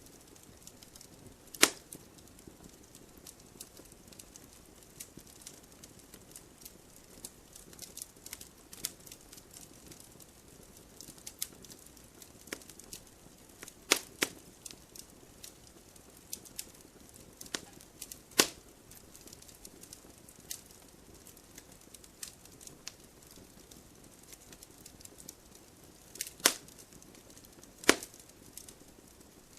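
Wood fire crackling in a wood-burning stove: irregular small snaps and ticks over a faint hiss, with a few sharper, louder pops.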